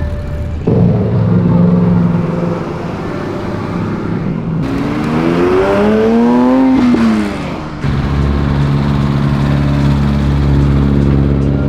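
Car engines running in several short cuts. In the middle one, an engine revs up over about two seconds and then drops back quickly.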